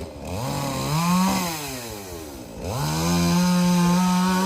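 Two-stroke chainsaw revving up about a second in, falling back, then revving sharply again near the three-second mark and holding a steady high speed.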